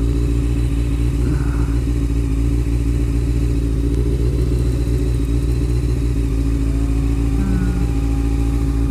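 Honda CBR motorcycle engine running steadily, with low wind rumble on the microphone.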